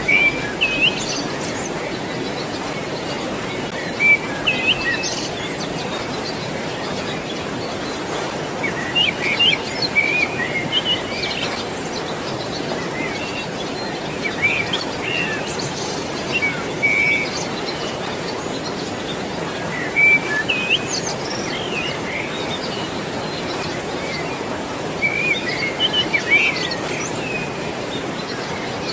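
Birds chirping in short clusters every few seconds over a steady rush of flowing water.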